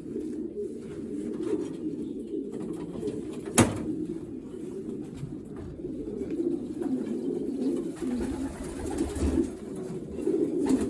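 Many racing pigeons cooing together in an enclosed loft, a continuous low murmur of overlapping coos. A single sharp click cuts through about three and a half seconds in.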